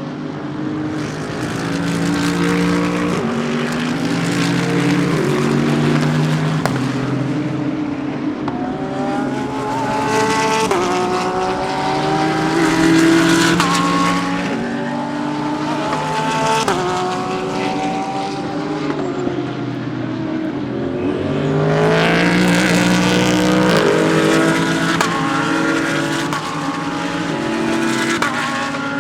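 Several GT3 race cars running together, their engines overlapping. They accelerate through the gears, pitch climbing and dropping back at each upshift, and swell loudest about two-thirds of the way through.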